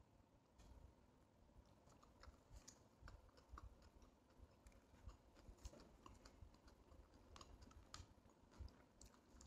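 Faint chewing of a chicken shawarma wrap, with scattered small clicks.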